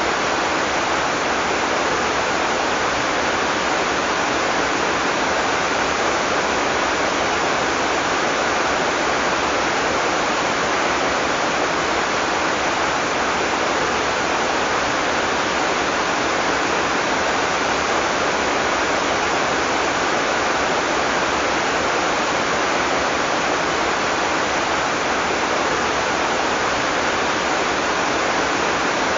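Heavy tropical rain falling in a steady, even downpour with no thunder.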